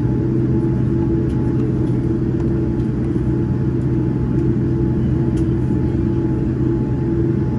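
Steady rumble and hum inside the cabin of a Boeing 787-9 from its GEnx engines, with several steady tones over a low rumble and no rise in pitch.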